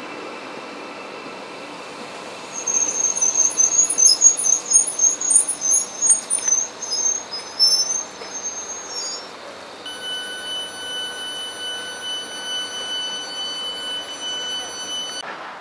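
Stadler GTW regional train braking to a stop, with a high, wavering squeal for about six seconds as it halts. About ten seconds in, a steady high tone starts and cuts off suddenly near the end.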